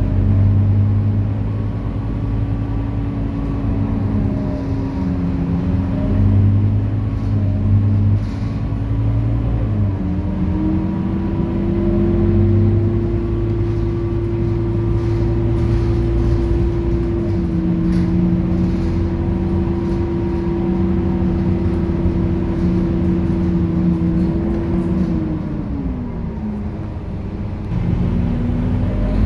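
Scania K230UB city bus running under way: a steady low engine rumble with a whine over it that rises in pitch about ten seconds in, holds steady, then falls away near the end as the bus eases off.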